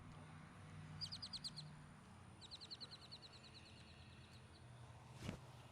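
A bird calling faintly in two runs of quick, evenly repeated high notes: a short run about a second in, then a longer run of about twenty notes. A single sharp click comes near the end.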